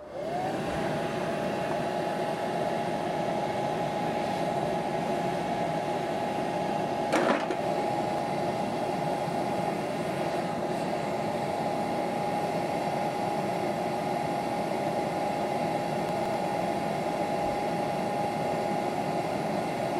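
Aluminium-melting furnace's air blower switched on, its motor whine rising quickly to a steady pitch over a strong rush of air. A single sharp knock about seven seconds in.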